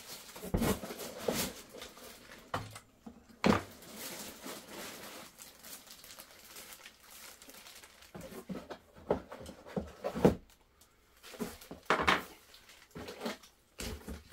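Unpacking noise: plastic bags and packaging rustling, with irregular knocks and taps as parts are lifted out of a cardboard box.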